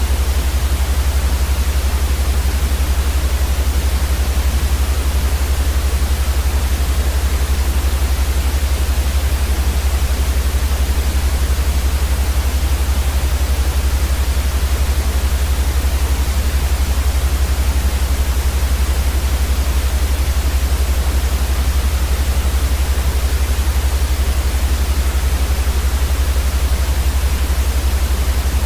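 Steady, unchanging white noise: an even hiss across the whole range with a heavy low rumble underneath.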